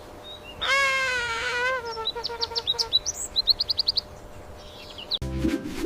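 Bird calls: one long, wavering call about a second in, then a series of short, high chirps, some repeated quickly. A different, lower sound begins near the end.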